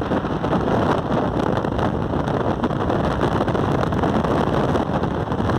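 Steady rush of wind buffeting the microphone on a moving motorcycle, with the bike's engine running underneath.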